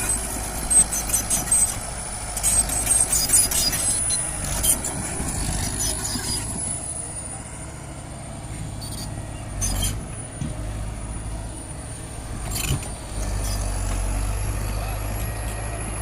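Heavy earthmoving machinery running with a steady low engine rumble. Sharp metallic clanks and knocks come in the first few seconds and now and then after, and the engine grows louder a little before the end.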